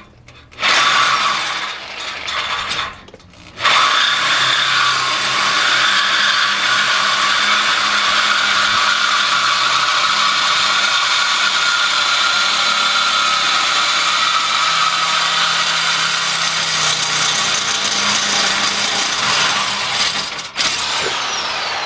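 Electric power saw cutting through a steel exhaust pipe. It starts about half a second in, stops briefly around three seconds, then cuts steadily and winds down with a falling whine at the end.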